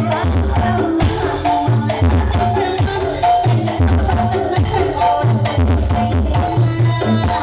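Loud music played through a large carnival sound system: a heavy bass beat pulsing about once a second under drums and a melody.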